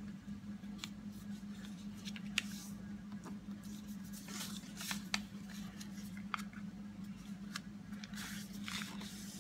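Thin copy paper being folded and creased by hand: scattered sharp crinkles and taps with a few short rustles, over a steady low hum.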